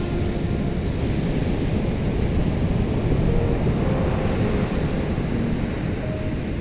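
Ocean surf washing in, swelling to a peak about halfway through and easing off again. Soft, faint music notes sound underneath.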